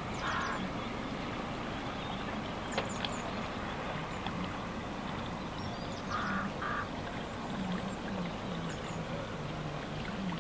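Harsh bird calls: one right at the start, then two in quick succession about six seconds in. Under them runs a steady hum of distant road traffic.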